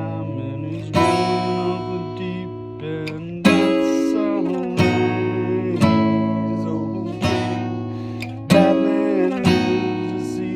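Acoustic guitar strumming chords, each chord struck and left to ring out, with a new chord about every one to two seconds.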